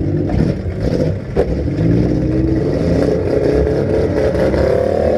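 Compact car engines revving hard in a demolition derby, the pitch climbing toward the end, with one sharp bang about a second and a half in.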